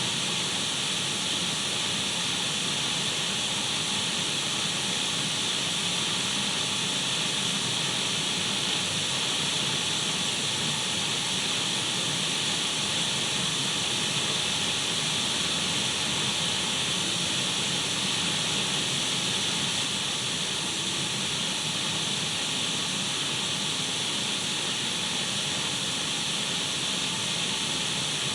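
Radio static: a steady, even hiss of an untuned radio, strongest in the upper middle range, with faint steady tones running through it.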